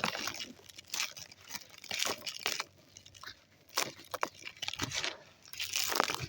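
Dry packed white sand crumbling: a run of irregular gritty crunches and crackles, with a quieter stretch midway and the loudest crunching near the end.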